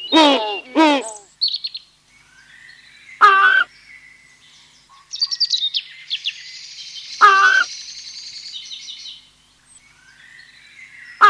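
Bird calls. A run of short falling calls ends about a second in, followed by scattered high chirps and twitters, loud single short calls about 3 and 7 seconds in, and a quick series of similar calls right at the end.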